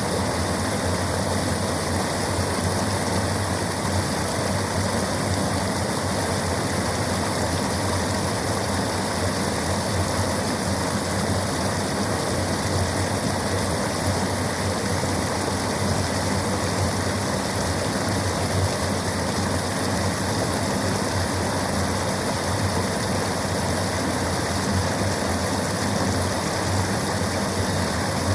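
River water rushing, a steady even noise that does not change.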